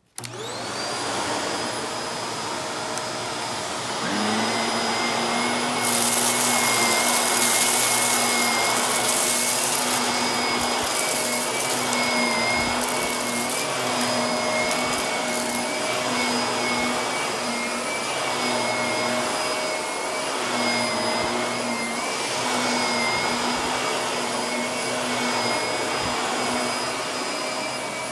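Vacuum cleaner switched on, its motor whining up to speed; a second, lower hum joins about four seconds in. From about six seconds a crunchy crackle of fine dirt and grit being sucked up rides over the motor for several seconds, then the vacuum runs on steadily.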